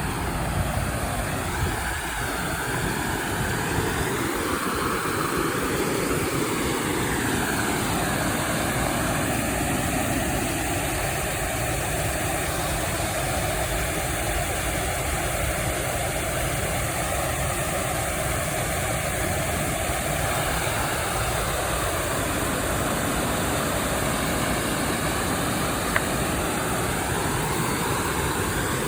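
Creek water flowing and rushing: a loud, steady, even noise that does not change.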